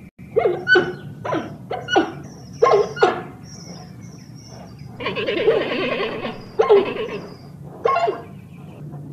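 Giant panda calling: a run of short pitched calls, then a longer rough, noisy call about five seconds in, followed by a few more short calls.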